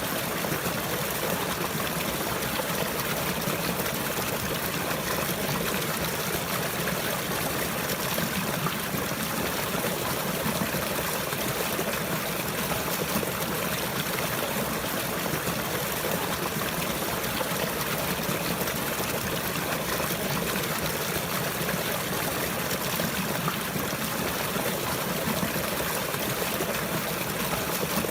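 Running water, a stream trickling and splashing steadily without change.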